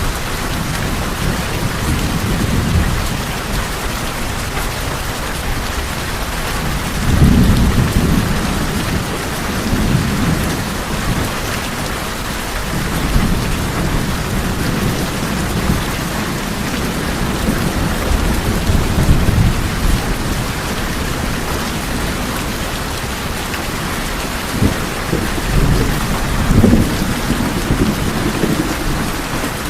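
Steady rain falling on tin roofs, with several low rolls of thunder; the strongest come about seven seconds in and again near the end.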